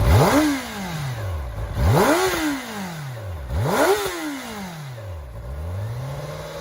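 Kawasaki ZX-10R's inline-four engine revved through its exhaust in three quick blips about two seconds apart, each rising sharply and falling slowly back to idle. Near the end the revs climb gently and hold steady.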